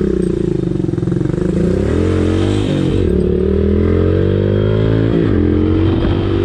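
Motorcycle engine running while riding, its pitch gliding up and down with the throttle and dipping briefly twice, about two and a half and five seconds in.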